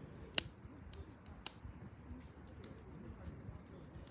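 Firewood burning in a campfire, crackling with irregular sharp pops over a low hiss; the loudest pop comes about half a second in.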